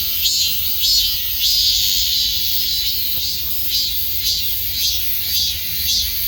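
Cicadas singing: a loud, high buzzing song that pulses roughly twice a second, with one longer swell about two seconds in.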